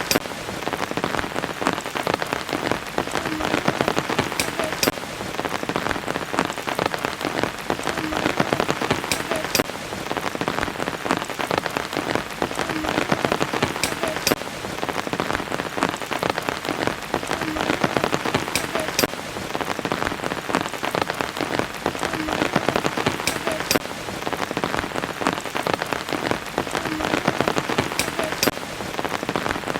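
Steady rain falling on surfaces: a dense, even patter of drops, with a few sharper drop hits that recur every four or five seconds.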